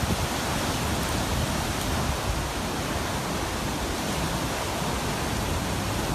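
Steady rushing noise of wind and sea surf, with a low rumble of wind on the microphone.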